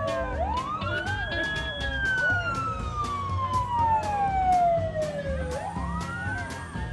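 A wailing, siren-like tone that swoops up quickly and then slides slowly down in pitch over about four seconds, twice, over background music with a steady beat.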